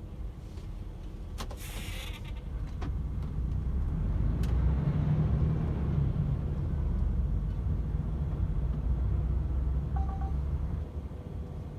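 DAF XF 510 truck's six-cylinder diesel engine running, its low rumble growing louder about four seconds in, holding steady, then easing near the end. A short hiss with a few clicks comes early, and a brief two-note beep sounds near the end.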